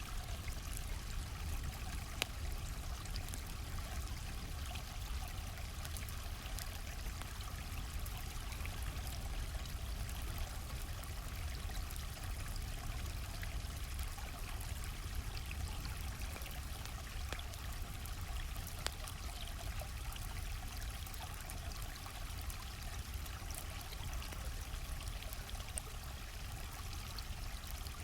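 A stream flowing steadily, with sparse crackles and pops from a campfire scattered over it.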